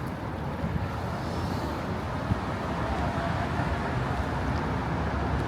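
Downtown street traffic: a steady rumble and hiss of passing cars, slowly growing a little louder.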